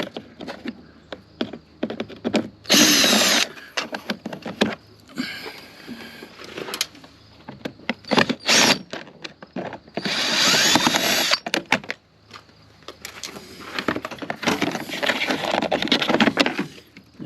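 Cordless drill-driver run in a few short bursts, its motor whine rising and falling, with clicks and rattles of plastic parts being handled between the bursts.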